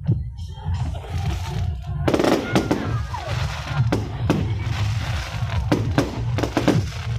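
Fireworks going off in quick succession, a string of sharp bangs and crackles, over music with a steady low beat.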